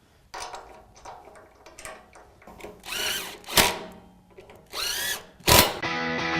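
Power drill spinning in two short runs, its motor whining up and then down in pitch each time. Clicks and two sharp knocks come between the runs, and music starts near the end.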